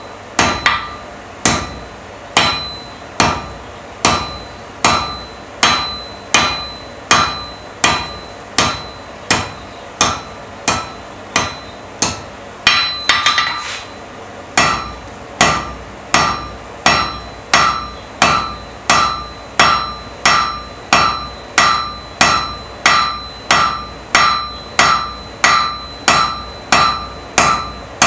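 Blacksmith's hand hammer striking iron on an anvil in a steady rhythm while forging a nail, each blow with a short metallic ring. About one blow a second at first, with a quick cluster of blows about halfway, then a faster pace of about three blows every two seconds.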